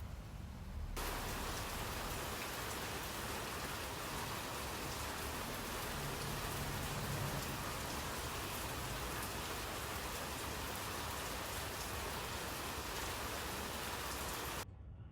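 Steady rain falling, a dense even hiss that cuts in suddenly about a second in and stops abruptly near the end.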